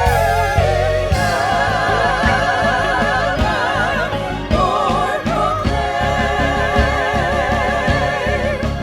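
Music: several voices singing sustained notes with vibrato over instrumental accompaniment and a full low bass.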